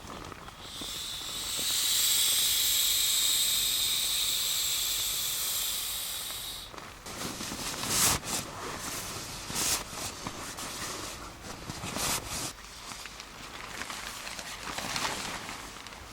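A loud, steady high hiss that swells and then fades after about six seconds, followed by a run of short, irregular crunching or rustling noises.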